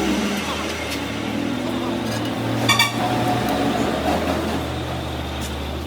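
A machine motor running with a steady low hum, with one sharp click a little before the middle.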